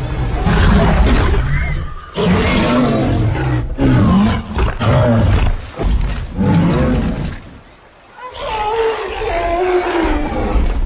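A large animal roaring: four long, loud roars one after another, with a short break about eight seconds in.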